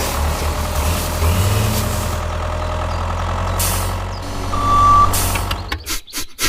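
Low, steady tractor engine rumble that sets off just after "let's go", with a single short beep about four and a half seconds in. The rumble cuts off near the end.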